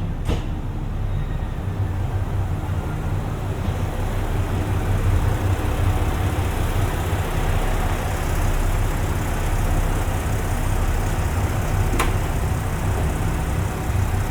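2700 series diesel train running, a steady low rumble, with one sharp click about twelve seconds in.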